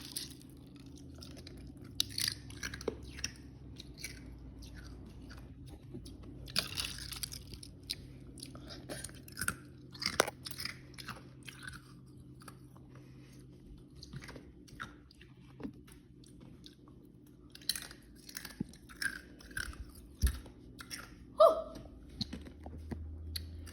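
A person chewing and eating close to the microphone: irregular wet mouth smacks and soft crunches with short pauses between them.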